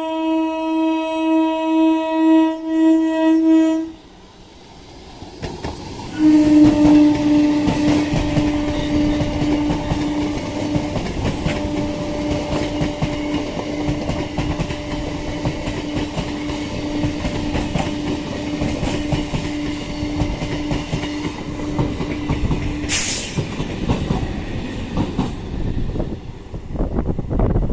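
Indian passenger train running past a level crossing, its wheels rumbling and clattering on the rails. Over this its horn sounds one long, steady blast with a brief break, held for about seventeen seconds. The first few seconds hold a held musical tone that cuts off abruptly.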